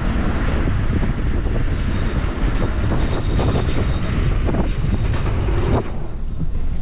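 A vehicle driving on a road: a steady low rumble under a broad hiss of road noise, the hiss dropping away sharply near the end.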